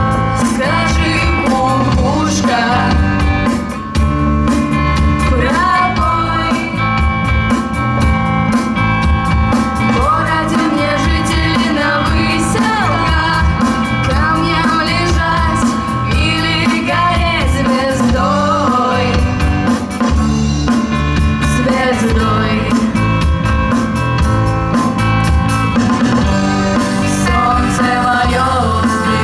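A live rock band playing, with guitar and drum kit: continuous, steady music with gliding pitched lines over a heavy low end.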